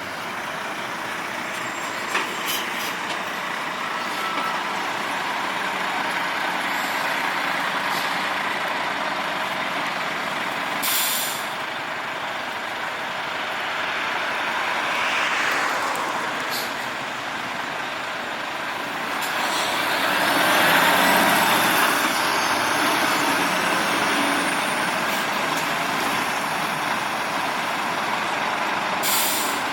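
Scania P450 truck running, its engine and road noise swelling and easing, with two short sharp hisses of compressed air from the air brakes.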